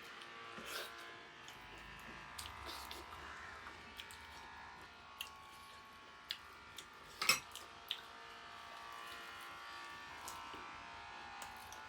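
Small eating noises while someone eats a meal: scattered soft clicks and smacks, with one sharper click about seven seconds in. A steady buzzing hum sits underneath throughout.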